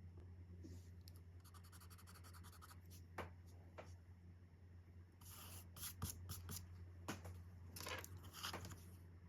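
Alcohol marker tips rubbing on coloring-book paper in short strokes: a quick run of rapid back-and-forth strokes about two seconds in, then scattered strokes and ticks, with a faint low hum underneath.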